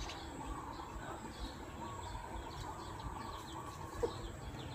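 Quiet background of small birds chirping faintly over a low steady hiss, with one brief louder note about four seconds in.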